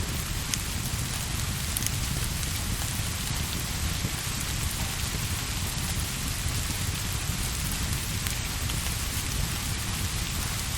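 Steady rain falling, an even hiss over a continuous low rumble, with a few sharp clicks scattered through it.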